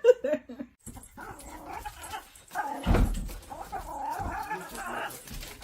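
A dog vocalizing in irregular, low-level sounds, with one thud about three seconds in.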